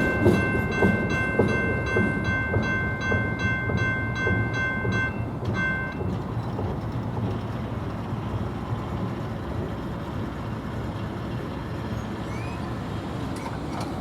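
A railroad bell rings in quick repeated strikes over the rumble and wheel clatter of a passing freight train. The bell stops about five seconds in, with one last short ring, and the train noise fades.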